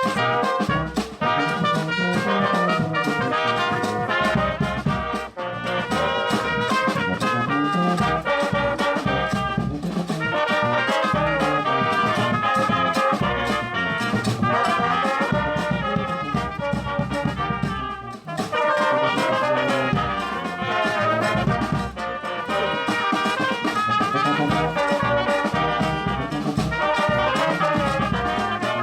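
A band playing brass music, trumpets and trombones carrying the tune over a steady beat, with brief breaks between phrases.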